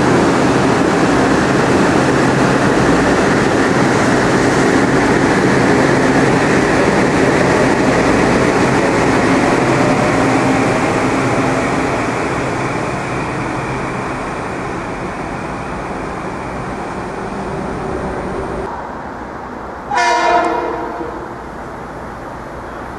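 Metro-North M8 electric multiple unit pulling away along the platform: steady rumble of wheels and running gear, with a faint rising motor whine, fading as the train leaves. About 20 seconds in, a train horn gives one short blast.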